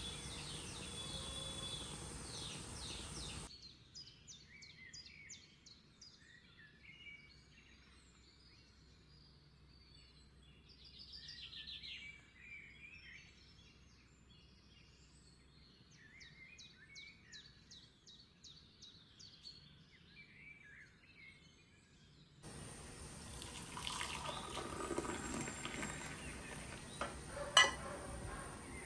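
Birds chirping and trilling in the background over quiet room tone. A steady hiss runs in the first few seconds. In the last few seconds there is the rushing of liquid being poured, then a single sharp clink.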